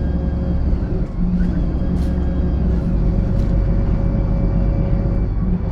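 VDL SB200 Wright Pulsar 2 single-deck bus running, with a steady low engine drone and a steady whine over it.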